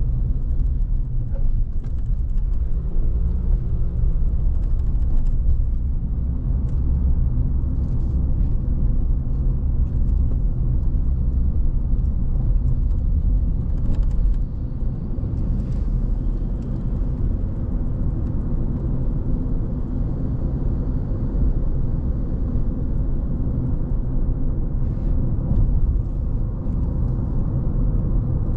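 Car driving at steady speed: a continuous low rumble of engine and road noise, with faint occasional ticks.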